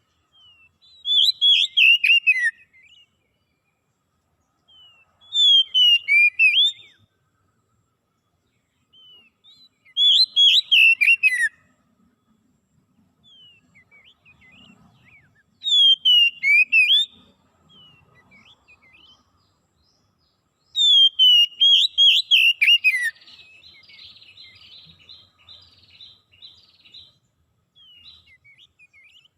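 Songbird singing five loud, quick phrases, each a run of whistled notes falling in pitch, about five seconds apart. Softer twittering fills the gaps and runs on for a few seconds after the last, longest phrase.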